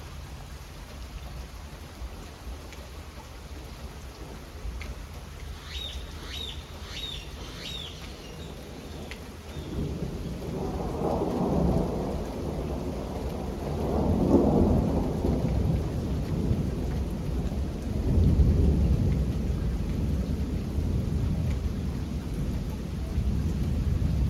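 Steady rain falling, with a long roll of thunder that starts about ten seconds in and rumbles on, swelling twice. A few short high chirps sound briefly before the thunder.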